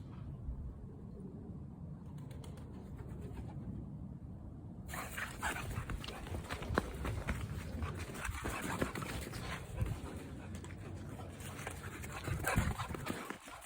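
A boxer dog's noises as it runs around. For the first few seconds there is only a low rumble, then busier rustling noise with scattered clicks from about five seconds in.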